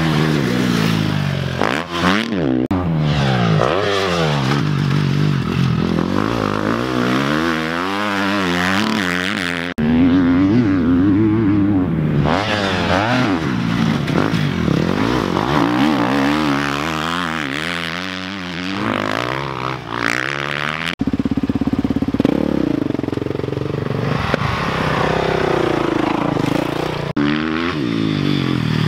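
Dirt bike engines on a motocross track, revving up and down over and over as the bikes are ridden, with the sound cutting abruptly a few times.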